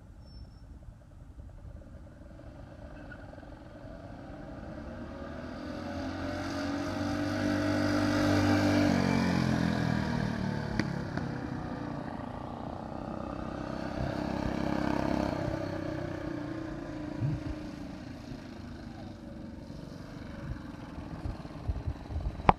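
Small single-cylinder engines of a minibike and go-kart (5 hp and 3.5 hp) running hard during a drag run. The engine sound grows to its loudest about eight or nine seconds in, drops in pitch as the machines pass, swells again briefly around fifteen seconds and then fades.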